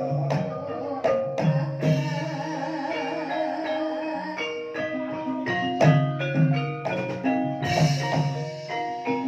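Banyumasan gamelan ensemble playing an instrumental passage of an ebeg-style gending. Mallet-struck keyed instruments ring out a running melody over low sustained notes, punctuated by sharp drum strokes.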